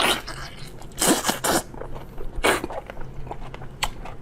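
Close-miked eating of meat: sharp wet smacks and bites while chewing, with a quick cluster about a second in and single ones about two and a half and four seconds in.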